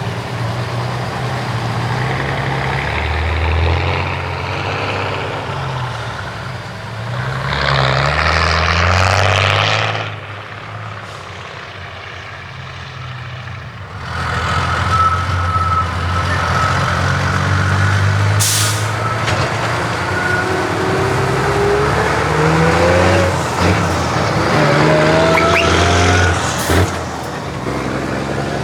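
Heavy trucks with open exhaust pipes driving slowly past, their diesel engines running loud and deep, with short sharp air-brake hisses twice in the second half. One engine note rises in pitch as it revs up, about two-thirds of the way through.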